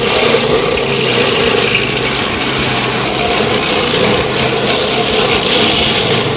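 Stump grinder running under load, its engine and cutter wheel chewing into wood in a steady, loud grinding noise with a hiss over it.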